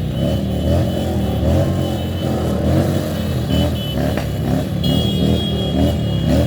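Motorcycle and car engines running in dense moving traffic, with a pitched sound that rises and falls about twice a second over the engine noise.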